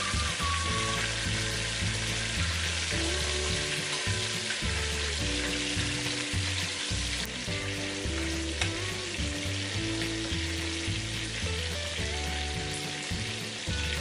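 Chicken drumsticks and curry leaves frying in hot coconut oil, a steady bubbling sizzle, with background music underneath.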